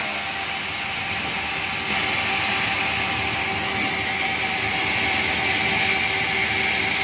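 Sawmill machinery running steadily: a constant mechanical whine and hum, getting a little louder about two seconds in.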